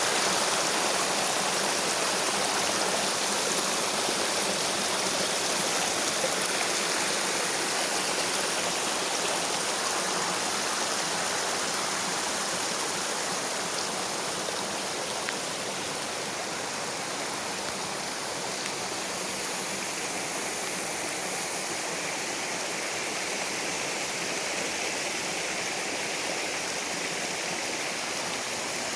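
Steady rain with rushing water, an even, unbroken hiss that grows slightly quieter as it goes on.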